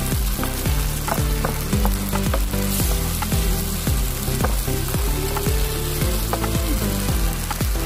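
Octopus adobo sizzling in its sauce in a frying pan, a steady hiss of cooking, with background music and its regular low beat underneath.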